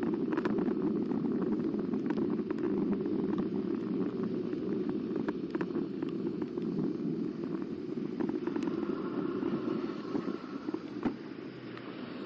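Steady riding noise of an eBike heard from a camera mounted on the bike: a continuous rumble of tyres and wind, with scattered small knocks and rattles.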